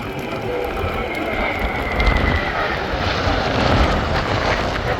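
KAI T-50B jet trainer of the Black Eagles team flying by, its turbofan's whine gliding down in pitch during the first two seconds or so, then broad jet noise building up and holding strong.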